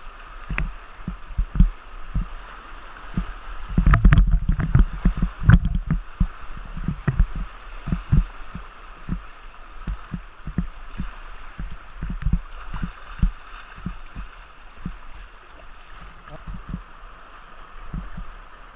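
Water slapping against the hull of a tandem kayak running through river waves: irregular low knocks, densest and loudest about four to six seconds in, over the steady rush of the river.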